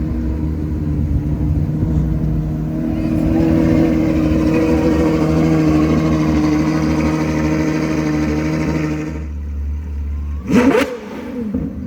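Sports car engine running with a steady low note that swells a little and then drops away, followed about a second later by a short, sharp rev blip that sweeps up and down in pitch.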